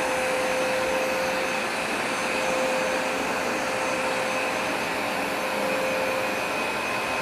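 Hoover SmartWash Pet carpet cleaner running steadily during a cleaning pass, a constant suction rush with a fixed motor whine.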